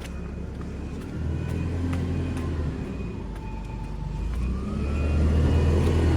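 A large diesel vehicle, likely a bus, engine running, with a whine that climbs in pitch about halfway through as it moves off. A repeated reversing beeper sounds faintly in the first couple of seconds.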